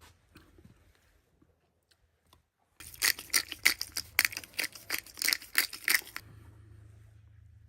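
A rapid run of crisp crunching strokes, about five a second, lasting some three seconds from just before the middle, over a low steady hum.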